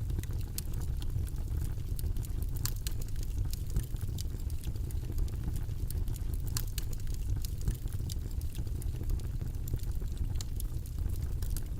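Steady low rumbling white-noise bed, with scattered light clicks sounding through it.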